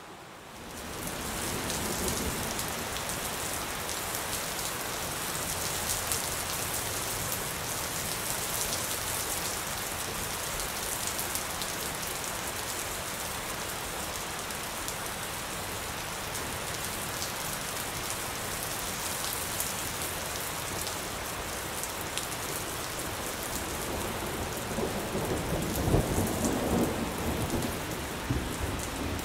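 Steady rain that swells up over the first second and then holds even. Near the end a low rumble of thunder rises and fades.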